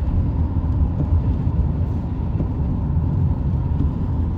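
Steady low road rumble inside a moving car, from tyres and engine at cruising speed.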